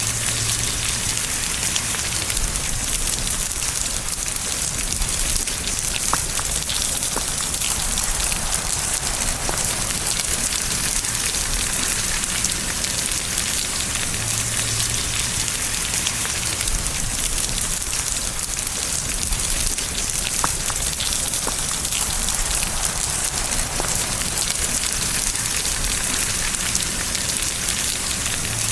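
Steady rain falling: an even hiss with scattered drop ticks, with no change in level.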